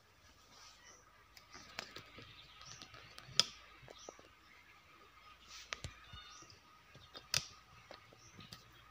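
A few sharp clicks and small knocks of hands handling things while incense sticks are lit, the two loudest clicks about three and a half and seven seconds in.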